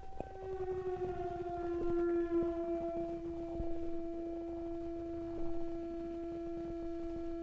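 A sustained, siren-like droning tone in a dark experimental music track. It slides down a little in pitch over the first two seconds, then holds steady, with faint scattered clicks underneath.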